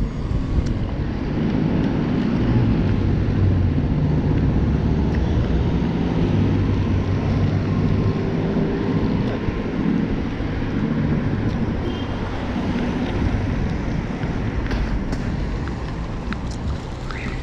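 Steady low rumble of wind buffeting the microphone with road noise, as while riding along.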